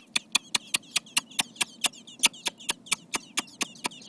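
Rapid kissing lip-smacks, about five a second, made to get robin nestlings to gape. Between them come the nestlings' thin, high begging peeps.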